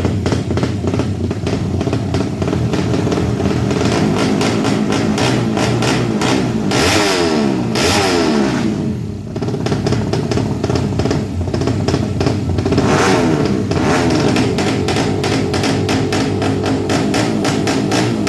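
Tuned 200cc underbone drag-racing motorcycle engines revving hard and loud, with the pitch sweeping up and down around the middle and a brief drop about nine seconds in.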